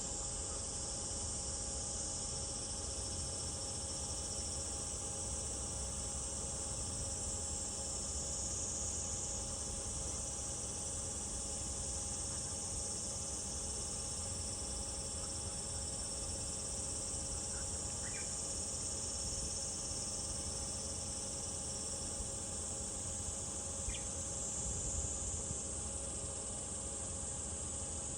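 A chorus of cicadas buzzing continuously in a high, steady drone that swells and eases slightly. Two faint short chirps come through about two-thirds of the way in and again near the end.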